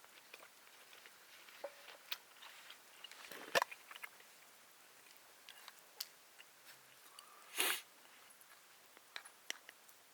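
A person eating close to the microphone: quiet chewing and bites with small scattered clicks, and two louder bites, one about a third of the way in and one near three-quarters.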